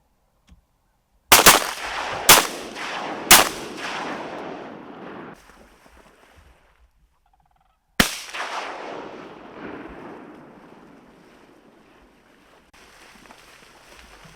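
Shotgun blasts: three shots about a second apart, then a fourth about eight seconds in, each trailing off in a long echo.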